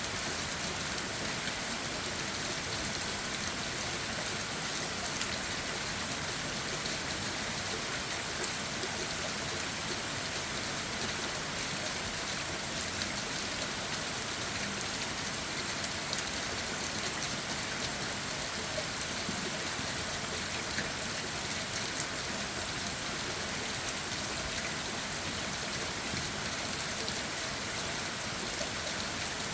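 Steady rain falling on leaves and the forest floor, a continuous patter with scattered individual drops tapping.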